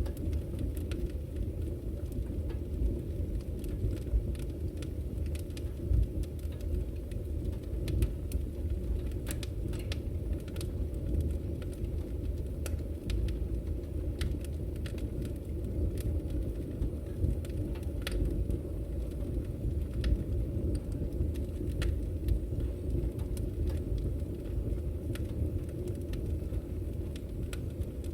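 Wood fire burning in a fireplace: a steady low rumble of the flames with frequent, irregular sharp crackles and pops from the firewood.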